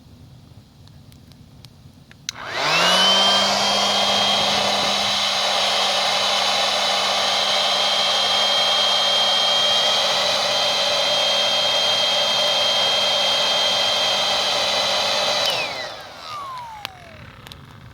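Electric air pump blowing air into a campfire to fan it up: it switches on about two seconds in, spins up to a steady hum with a high whine, runs for about thirteen seconds, then winds down with a falling pitch as it is switched off.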